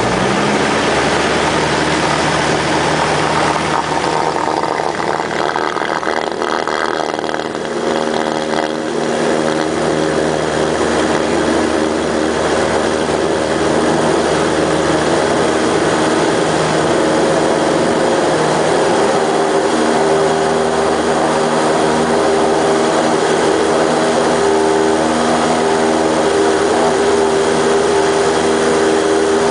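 Light propeller aircraft's piston engine at full takeoff power, a steady drone through the takeoff roll and climb.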